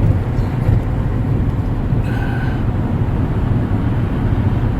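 Steady low rumble of a car driving at speed, road and engine noise heard inside the cabin.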